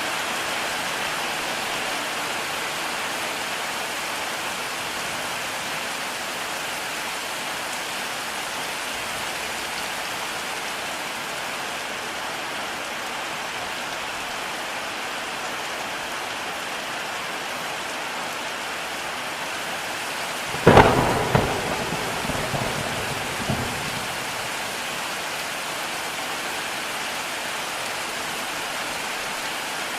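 Heavy rain falling steadily, with a single sharp thunderclap about two-thirds of the way through that crackles and rumbles for about three seconds before fading back into the rain.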